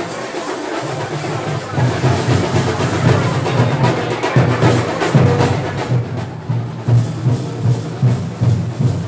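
Music with rhythmic drumming: a steady beat of drum strokes over a busy mix of other sound.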